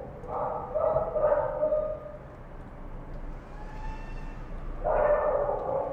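Dogs barking and howling in drawn-out, pitched calls: two calls in the first two seconds, faint higher whines in the middle, then another loud call near the end.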